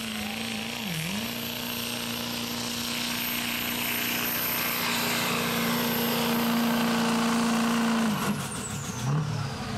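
Pulling truck's engine at full throttle dragging a weight-transfer sled down the track: revs dip briefly about a second in, then hold high and steady as the noise builds. About eight seconds in the revs drop off as the pull ends and the engine winds down unevenly.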